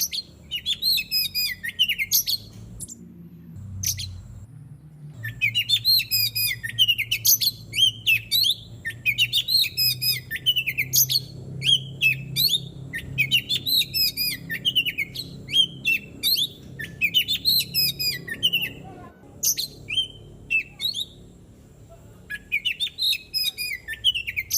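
Oriental magpie-robin (kacer) singing: long runs of fast, varied whistled phrases broken by short pauses, thinning to a few scattered notes near the end before a final burst.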